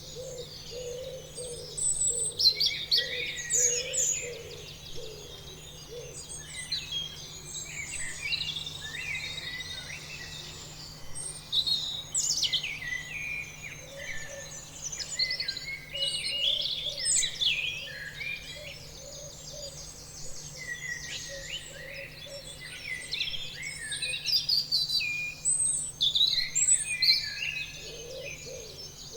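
A chorus of many songbirds chirping and singing, with overlapping calls and quick whistled notes that come in busier clusters every few seconds.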